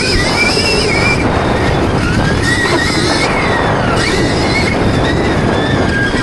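Stark Varg electric motocross bike being ridden, its motor giving a high-pitched whine that rises and falls several times as the throttle is worked, over heavy wind and track noise.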